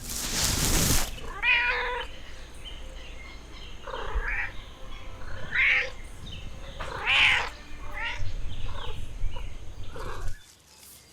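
A loud breathy rush of about a second, then a series of short pitched animal calls, about seven or eight, each under half a second long and wavering in pitch.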